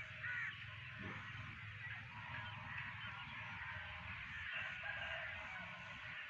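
Background chorus of birds chirping, with one short, louder bird call about half a second in.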